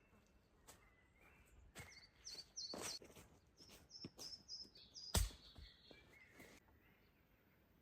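Birds chirping in quick short notes, over a string of light cracks and knocks with one heavier knock about five seconds in.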